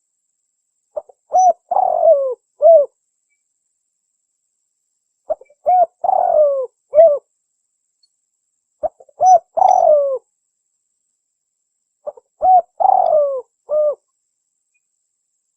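Spotted dove (tekukur) cooing: four phrases about three and a half seconds apart, each a quick run of short coos with one longer, drawn-out note, and silence between them.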